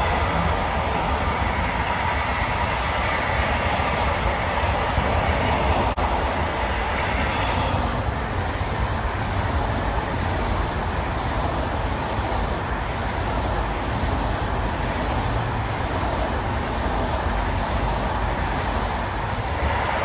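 Container freight wagons rolling past on the rails, with a steady rumble and clatter. About six seconds in the sound cuts to an ICE 4 high-speed electric train passing close by and running off into the distance.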